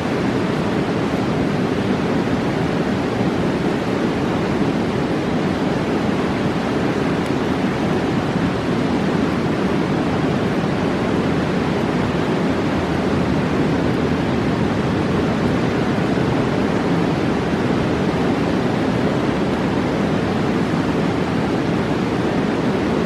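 A fast mountain river roaring: a loud, unbroken wash of rushing water, deepest in the low-middle range, with no pops or crackles standing out.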